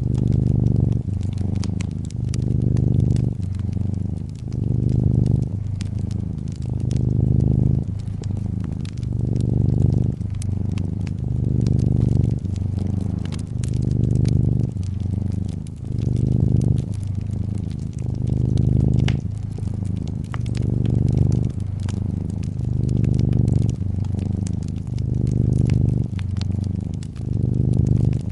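Domestic cat purring in a low, steady rumble that swells and fades with each breath, about every two seconds, over a wood fire crackling with frequent sharp pops.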